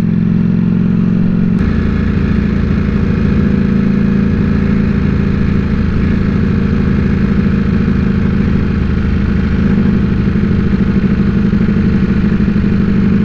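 Ducati Panigale V4 S's V4 engine running at a steady, even pace under way. About a second and a half in there is a click, after which a low rumble fills in beneath the engine note.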